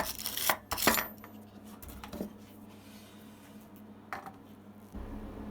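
Metal clinks and knocks from small metal workpieces or tools being handled: a quick cluster of sharp clicks in the first second, then single knocks about two and four seconds in, over a steady low electrical hum.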